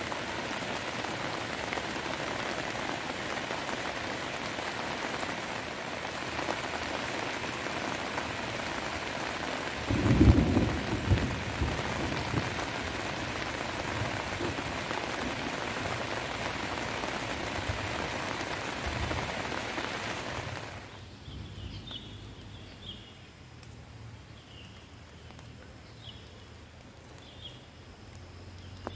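Heavy rain falling steadily, with a low rumble of thunder about ten seconds in. Near the two-thirds mark the rain sound drops away abruptly to a quieter background, where short high calls repeat every second or so.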